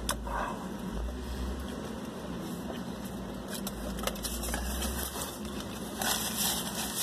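A man chewing a mouthful of roast beef sandwich, with a few small mouth clicks, over a steady low rumble inside a car. A napkin rustles briefly near the end.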